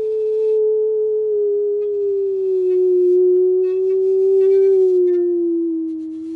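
Musical saw bowed with a double bass bow, sounding one sustained pure, ringing tone that slides slowly down in pitch with slight wavers as the player finds a note.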